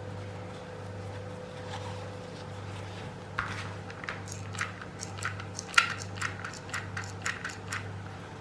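A run of light, sharp clicks and taps from handling craft materials and tools during gluing, about two a second and uneven, starting a little over three seconds in, with one louder click near the middle. A steady low hum runs underneath.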